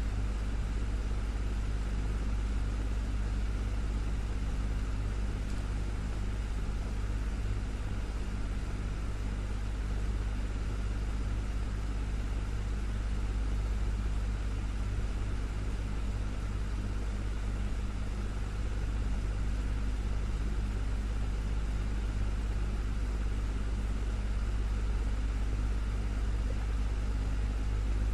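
Desktop fan running steadily: an even low rumble with a faint motor hum and a light whoosh of moving air.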